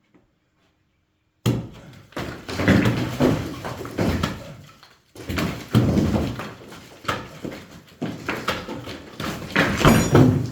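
Brick wall demolition by hand: a run of heavy thuds and clattering knocks at uneven intervals, each dying away quickly, as the wall is struck and bricks and rubble come down. The knocks start about a second and a half in, after a silent stretch.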